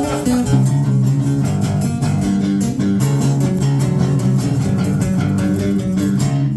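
Live band playing an instrumental passage: strummed guitar over bass guitar, with a steady rhythm of strokes.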